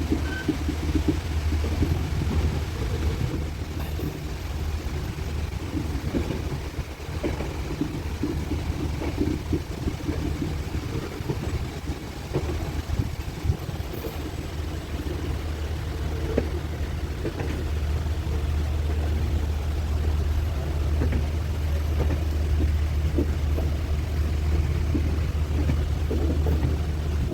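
Trincomalee express train running along the track, heard from aboard: a steady low rumble with irregular clatter and knocks of the wheels on the rails.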